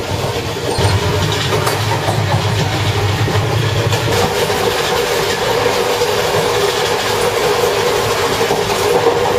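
Passenger sleeper train running along the track, heard from inside a carriage: a steady, loud running noise of wheels on rails, with a low hum that drops away about four seconds in.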